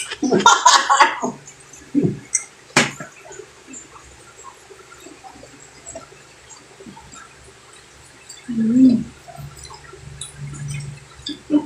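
Close-up eating sounds: chewing and small wet mouth clicks. There is a short vocal burst at the start, a sharp click about three seconds in, and low hummed "mm" sounds of enjoyment from about eight seconds on.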